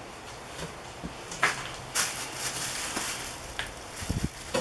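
Plastic bag and cardboard packaging rustling and crinkling as they are handled, with a few sharp clicks and a couple of low thumps near the end.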